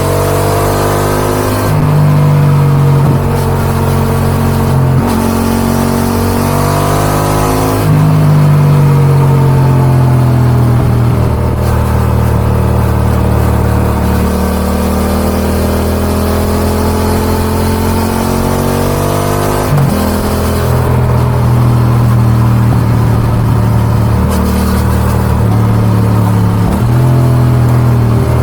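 Yamaha XSR700's 689 cc CP2 parallel-twin running through an Akrapovic dual exhaust, heard from onboard: the engine pulls up in pitch under throttle, drops back, and steps in pitch at several gear changes.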